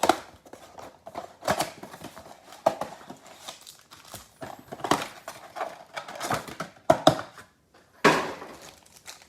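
A trading-card mega box being opened by hand: irregular crinkling of plastic wrapping, with cardboard rustling and a few knocks.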